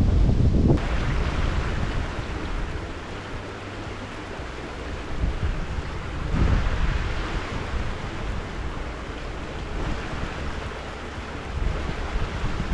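Strong gusty wind buffeting the microphone, with a deep rumble that swells and dies away in gusts, over a steady rush of stream water.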